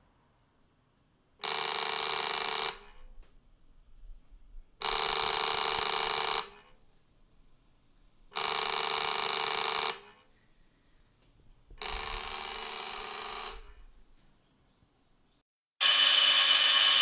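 A doorbell ringing in four bursts, each about a second and a half long and a few seconds apart, with a bell-like ring. Near the end a different, buzzing doorbell starts, louder than the rings.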